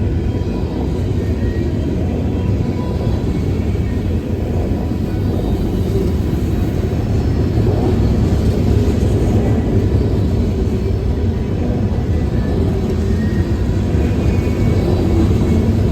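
CSX freight train rolling by with a steady, loud low rumble, growing a little louder about halfway through.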